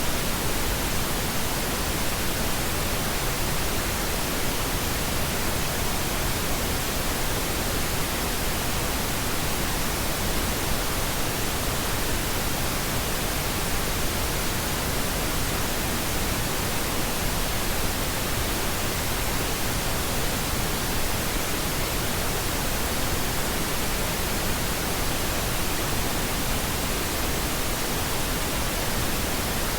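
Steady pink noise: an even, unchanging hiss spread from deep to high pitches, with no breaks.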